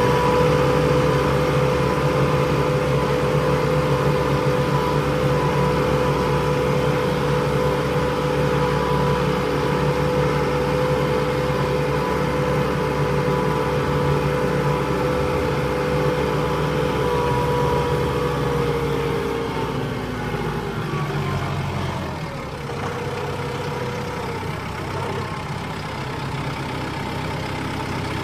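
Tractor engine running at a steady speed, then its pitch falls about twenty seconds in as it slows, and it runs on a little quieter.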